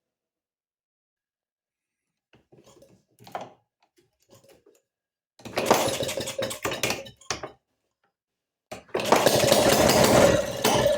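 1932 Maytag two-stroke washing-machine engine firing in a rapid run of pops for about two seconds, dying out, then catching again about nine seconds in and running loudly.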